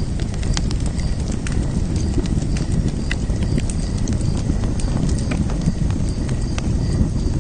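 Wood fire burning, with frequent sharp crackles and pops scattered irregularly over a steady low rumble of flames.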